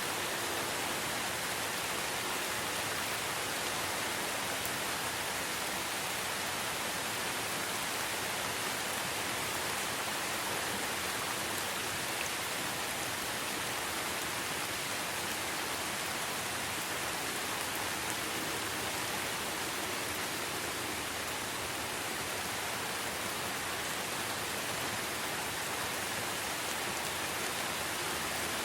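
Steady rain falling, an even hiss of many drops with no distinct splashes or thunder.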